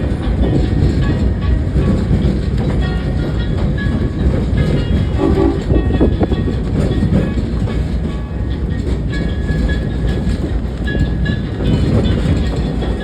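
Passenger train car rolling along the track, heard from aboard: a steady loud rumble of wheels on rail with clatter.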